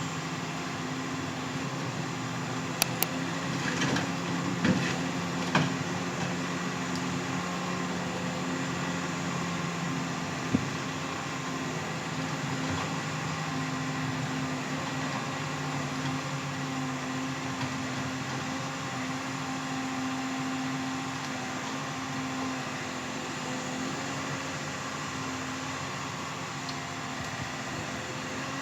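Forestry harvester's diesel engine running at a steady drone, with a few sharp knocks in the first several seconds and one more about ten seconds in.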